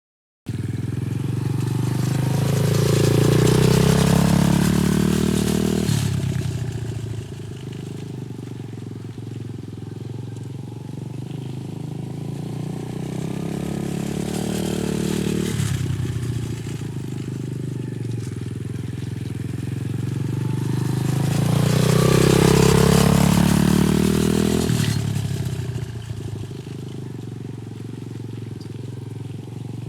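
125cc TaoTao DB17 dirt bike's single-cylinder four-stroke engine running as the bike is ridden around, growing loudest twice, about 4 seconds in and again about 22 seconds in as it comes close, the engine note dipping and rising each time.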